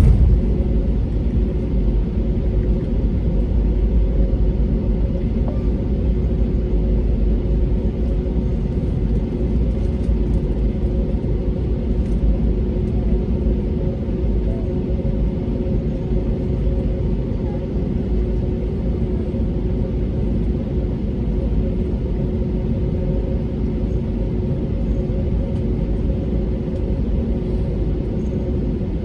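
Steady cabin noise inside an Airbus A320neo: a low rumble with a constant hum from its Pratt & Whitney PW1100G geared turbofan engines, holding at an even level.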